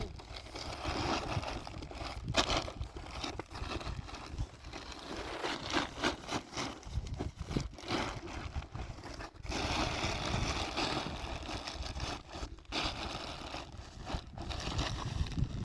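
Irregular scraping, crunching and rustling with short clicks, over a steady low rumble.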